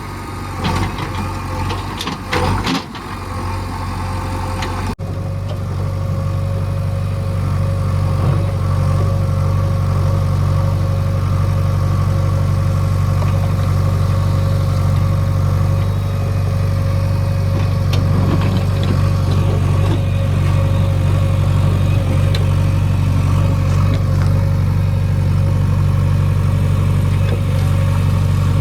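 Heavy diesel engine of earth-moving machinery running steadily at a constant speed, with a few clattering knocks in the first three seconds.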